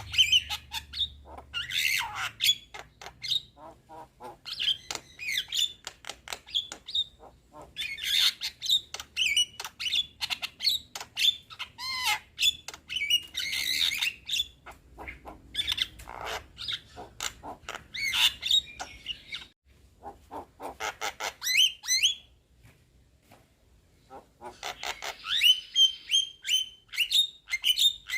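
Young Javan myna chattering: bursts of rapid clicking notes mixed with short whistled glides, each burst lasting a second or two, with a pause of about two seconds about three-quarters of the way through.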